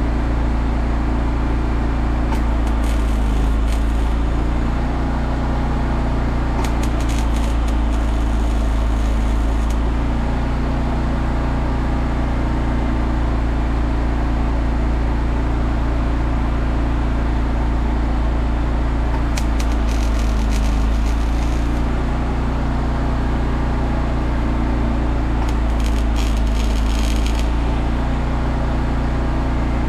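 A machine hums steadily and loudly throughout, broken by four short spells of crackling, as from an electric welding arc: about two seconds in, around seven to ten seconds in, around twenty seconds in and near the end.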